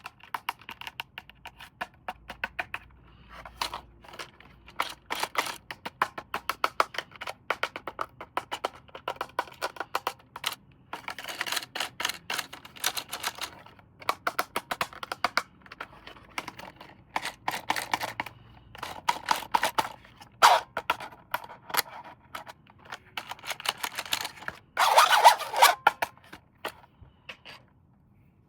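Plastic toy parts and packaging being handled: a long run of quick irregular clicks, crinkles and scrapes, with a louder burst about 25 seconds in.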